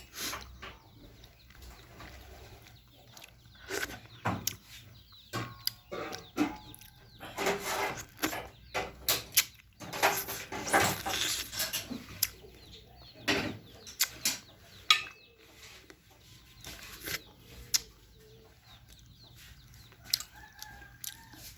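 Chickens clucking now and then, mixed with the clicks and slurps of someone eating chicken soup, with a busier run of eating noises in the middle.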